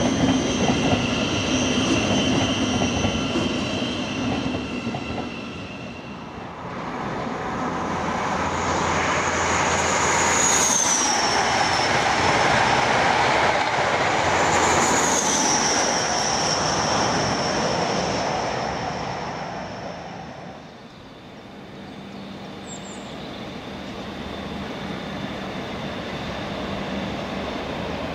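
Trains passing on a main line. A passing train with steady whining tones fades about six seconds in, then a louder one runs by with two high squeals that drop in pitch, and fades out about twenty seconds in. A steady low hum builds near the end as another train approaches.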